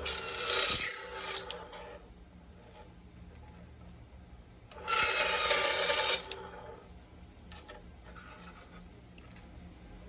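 Cuttlebone being cut, two dry rasping strokes: the first about one and a half seconds long at the start, the second about a second and a half long near the middle.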